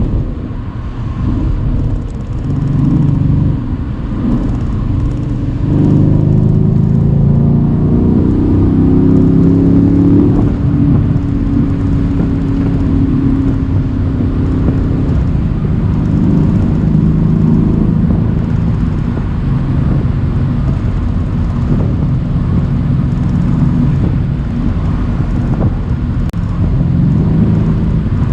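Mercedes-AMG C63's twin-turbo V8 pulling a cabriolet along at road speed with the roof open. The engine note climbs under acceleration over about four seconds a third of the way through, then settles into steady cruising, over a constant rumble of wind and road noise.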